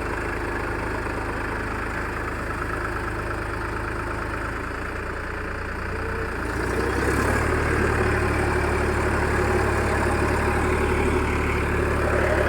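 Farm tractor's diesel engine running steadily, then speeding up and getting louder about halfway through and holding the higher speed.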